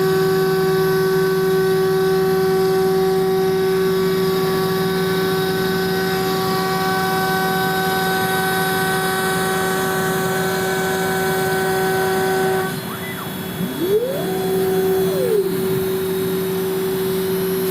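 CNC router spindle running a 4 mm single-flute carbide end mill at about 22,000 rpm through polyethylene, a steady high whine with the cutting note near the spindle's rotation rate. About two-thirds of the way through the cutting overtones stop, and a motor whine rises, holds and falls again, like an axis move.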